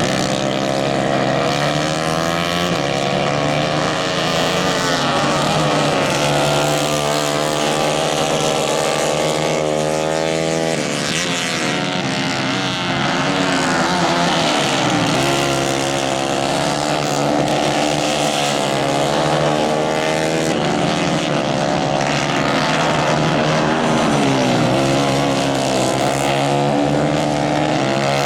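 Several 150 cc Kayak-class racing engines running at high revs. Their pitch rises and falls, and several engines overlap as they accelerate, lift off and pass.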